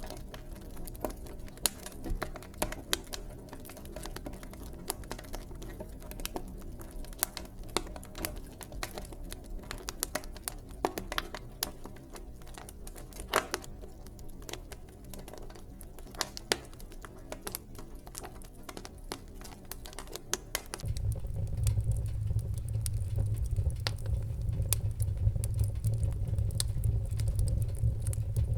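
Wood fire in a fireplace crackling, with frequent sharp pops and snaps. About twenty seconds in, a louder low steady rumble of burning comes in suddenly under the crackle.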